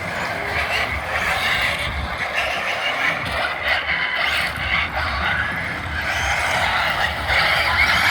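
Electric radio-controlled trucks driving, a steady noisy mix of motor and tyre sound that rises and falls.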